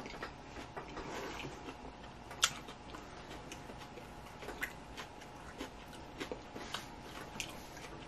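Close-miked eating sounds: chewing, with scattered small wet mouth clicks and smacks at irregular intervals, one sharper click about two and a half seconds in.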